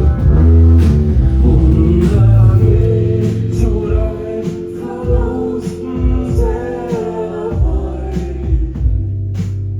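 Live band music: a sung melody over bass, drums and held chords.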